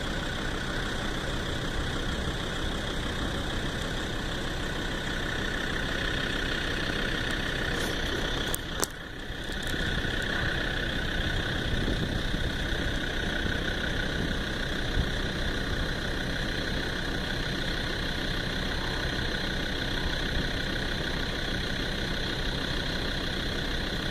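Level crossing's warbling 'yodel' audible alarm sounding continuously, over the low running of road vehicles idling at the lowered barriers. The sound drops out briefly with a few clicks about nine seconds in.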